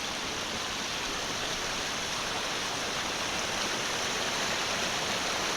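Fast-running mountain creek water rushing steadily, an even hiss and roar with no breaks.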